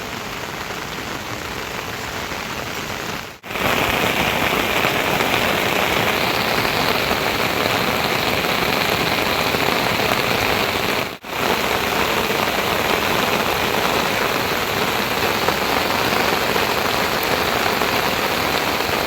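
Heavy rain falling steadily. It cuts out briefly twice, about three seconds in and about eleven seconds in, and is louder after the first break.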